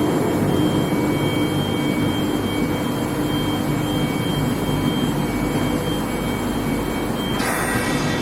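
Steady machine noise from an induction hardening and tempering line for steel bars, with a constant high whine and a low hum. A brief hiss cuts in about seven seconds in.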